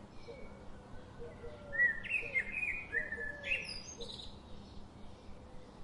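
Several birds singing and chirping. A louder burst of quick, high whistled notes comes in the middle, while short low notes keep repeating underneath.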